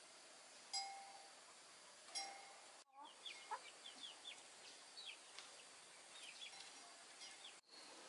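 Faint chickens: a run of short, high, falling chirps and soft clucks over quiet background hiss. Before the chirps come two brief sharp ringing sounds, about a second apart.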